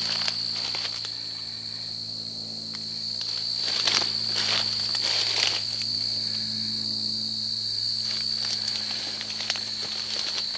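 A steady high-pitched drone of insects trilling, with footsteps and rustling through thick undergrowth now and then.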